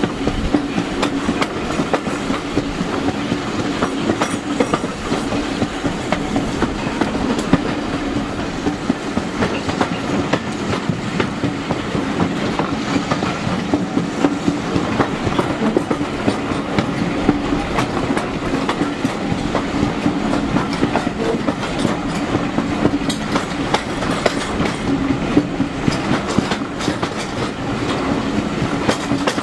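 Steam-hauled passenger coaches running along the track, heard from a carriage window: a steady rumble with frequent clicks of the wheels over the rail joints.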